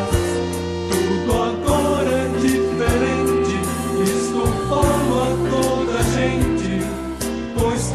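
Music with a singing choir over a bass line and a steady beat, in a gospel style; the chord changes about halfway through.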